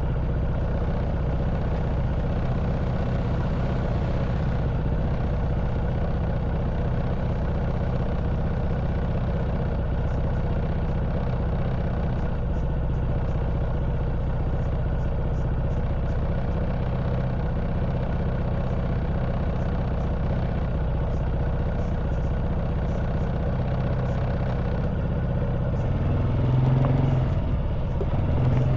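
Honda Wave 110cc single-cylinder four-stroke motorbike engine running steadily while riding a stony forest track, with light clatter and small clicks over it. The engine note swells briefly near the end.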